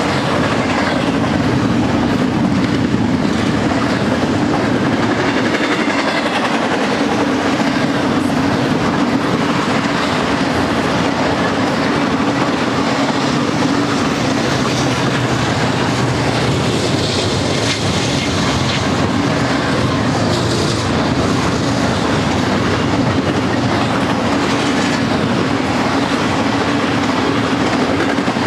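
Double-stack container train's loaded well cars rolling past, a steady, continuous noise of steel wheels running on the rails.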